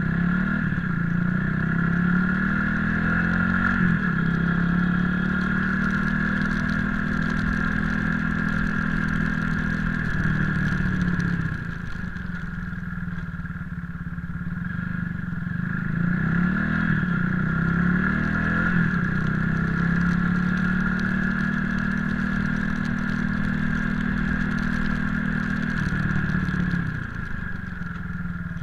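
Motorcycle engine under way: it pulls up in pitch, holds a steady cruise for several seconds, then eases off, and does the same again, over a constant high hum.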